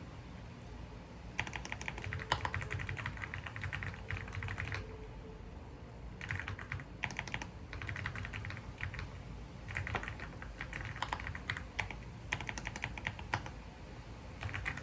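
Typing on a computer keyboard: quick runs of key clicks in five or six bursts, separated by short pauses.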